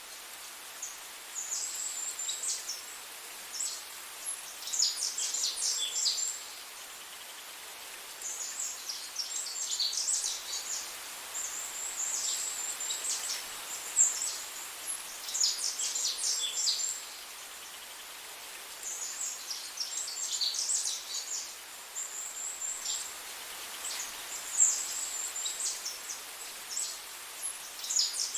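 Small songbird singing: repeated bursts of quick, high chirping phrases every few seconds, over a steady background hiss.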